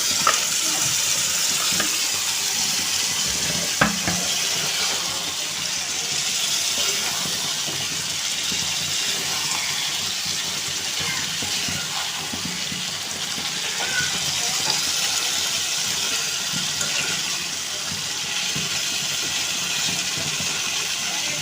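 Chicken pieces sizzling steadily in hot oil and spice paste in a pan, the wet meat giving off water as it fries. A sharp clink of a utensil on the pan about four seconds in.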